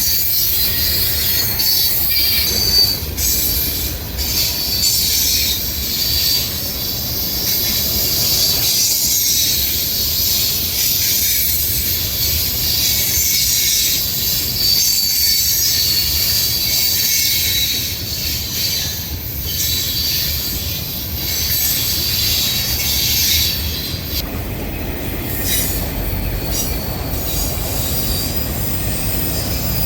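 Railroad cars rolling past on the rails: a continuous low rumble under a high, steady metallic wheel squeal.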